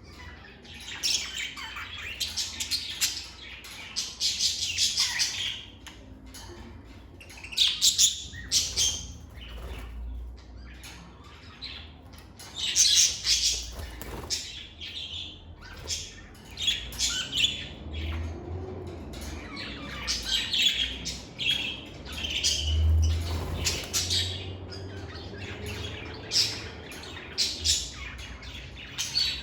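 Lovebirds chirping and squawking in repeated bursts of shrill, rapid calls.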